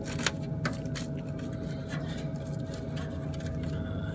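Pellet stove exhaust fan running steadily, a low hum with a steady whine, heard at the outside vent. A few light clicks come early on as the vent cap is handled.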